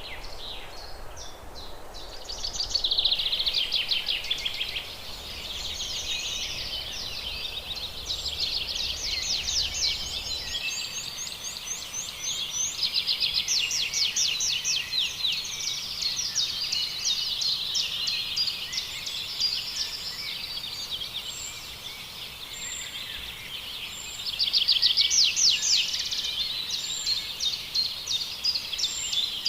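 Small birds singing: dense, fast, high-pitched trills and chirps, several songs overlapping, with louder bursts about three seconds in and again near the end.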